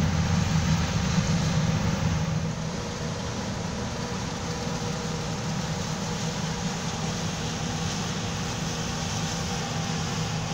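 Combine harvester and tractor engines running steadily as the combine unloads wheat into the grain cart alongside, a deep engine drone with a faint machinery hum above it. It eases off slightly about two and a half seconds in.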